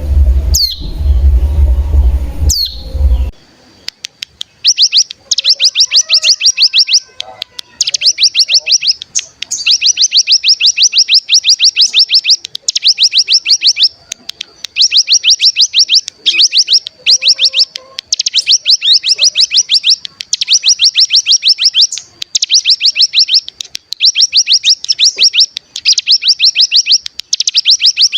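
Recorded ciblek gunung (hill prinia) song used as a lure call. For the first three seconds a loud low hum runs under a few sharp downward-sliding whistles. From about four seconds in the song turns to a run of rapid, buzzy trills ('ngebren'), each lasting one to two seconds, repeated over and over with short gaps between them.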